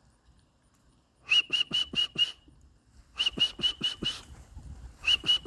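Short, sharp whistle blasts in three quick runs of about four or five, calling racing pigeons down to the loft.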